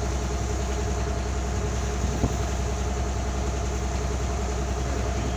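Boat engine running steadily with a low drone, heard from aboard, with one short knock a little over two seconds in.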